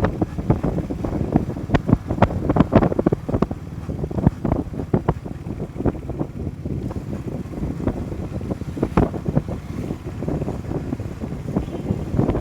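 Wind buffeting the microphone of a moving motorcycle, a steady low rumble broken by many irregular sharp gusts.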